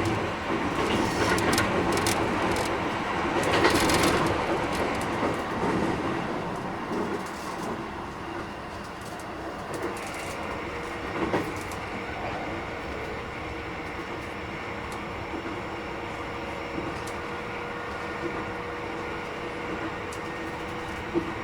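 Keikyu 1000 series electric train with Mitsubishi IGBT inverter running, heard inside the car: a dense rumble of wheels on rail, louder for the first few seconds and then settling to a steady level with faint steady tones under it. Sharp rail clacks come now and then, twice about halfway through and once near the end. This trainset is a little noisier than others of its class.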